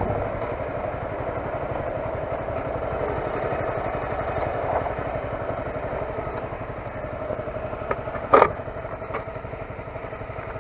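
Motorcycle engine running steadily, fading slowly, with one short loud burst about eight seconds in.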